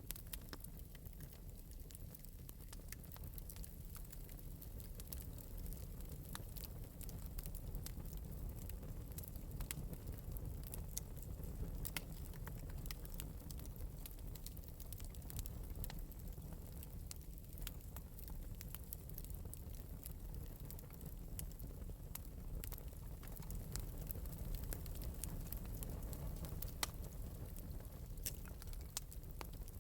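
Fire burning in an open fireplace: a steady low rumble of flames with many small, sharp crackles and pops.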